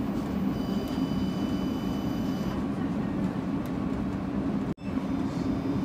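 Inside an electric passenger train slowing on its approach to a station: steady low rumble of the running train, with a faint high whine over the first couple of seconds. The sound cuts out for an instant near the end.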